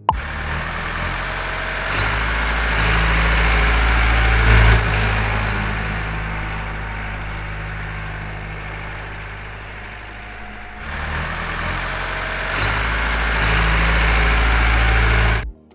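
Tractor engine running steadily with a heavy hiss over it. It eases off about eleven seconds in, swells again, then cuts off abruptly near the end.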